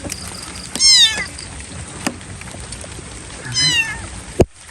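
Kitten meowing twice, high-pitched cries about three seconds apart. A sharp click comes near the end.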